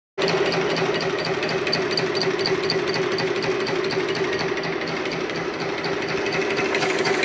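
Direct-drive shoe-repair patch sewing machine stitching, starting abruptly and then running steadily with an even rhythm of about five needle strokes a second.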